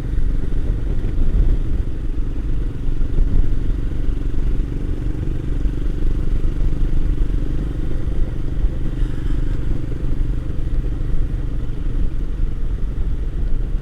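Royal Enfield Himalayan single-cylinder motorcycle engine running steadily at an even cruising speed on the open road, with a constant low rumble.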